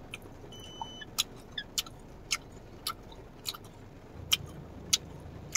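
Close-up chewing of a small hard candy: a string of sharp, irregular crunching clicks, roughly one every half second.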